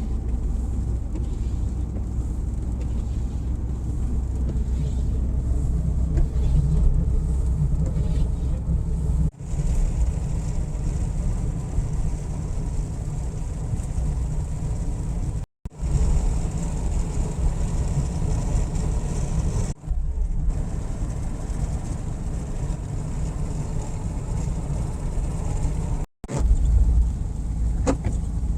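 Car driving, heard from inside the cabin: a steady low road and engine rumble that cuts out abruptly for a moment about four times.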